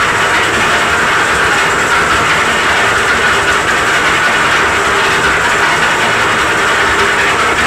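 Concrete mixer machine running steadily while it is rigged as a hoist to lift concrete material: a constant loud mechanical noise with no breaks or changes.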